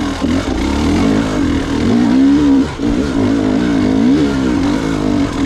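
Gas Gas EX 300 two-stroke enduro motorcycle engine running under constant throttle changes, its pitch rising and falling again and again, with a brief drop about halfway through.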